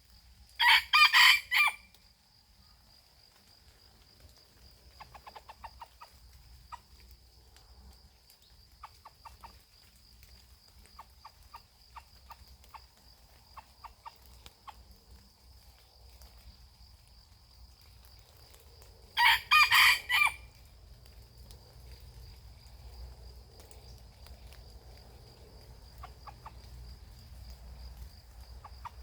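Red junglefowl rooster crowing twice, a loud crow about a second in and another about twenty seconds in, with soft clucking in between. A steady high insect drone runs underneath.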